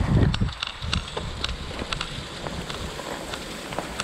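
Irregular drips and spatters of water from melting ice, with a steady rush of water behind them. A gust of wind hits the microphone at the start.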